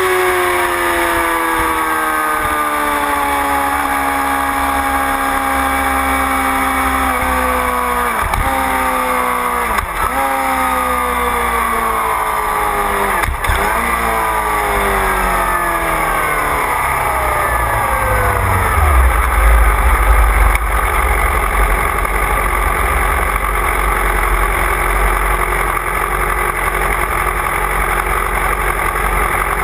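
Motorcycle engine heard onboard, its revs falling steadily as it slows, with three quick gear changes down about 8, 10 and 13 seconds in. From about 18 seconds in it settles into a low rumble at low revs.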